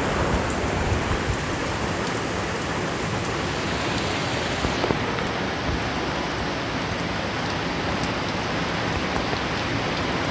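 Steady heavy rain falling, with scattered sharp drop hits.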